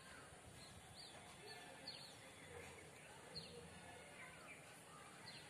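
Faint outdoor ambience with distant birds chirping: short, falling high-pitched chirps every second or so over a low background hiss.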